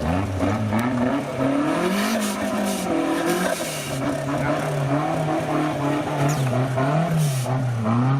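Off-road 4x4 competition vehicle's engine revving, its pitch rising and falling over and over as the throttle is worked.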